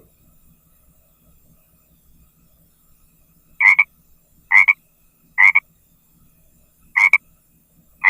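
A frog croaking: after a quiet start, a series of short, identical croaks begins about three and a half seconds in and repeats roughly once a second, five in all.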